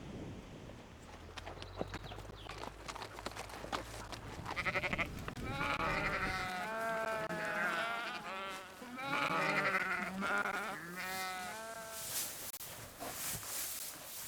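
Livestock bleating: several long, wavering calls about halfway through. Before them, a low rumble of wind or surf; a few sharp clicks near the end.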